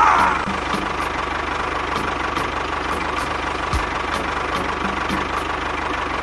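A small engine running steadily at idle with a fast, even knocking rattle.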